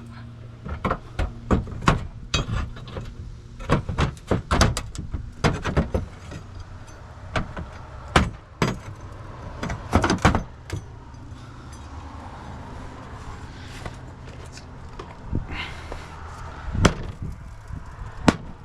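Hammer striking roofing nails to fasten metal flashing, an irregular run of sharp knocks in quick clusters. There is a quieter pause near the end, then two more single blows.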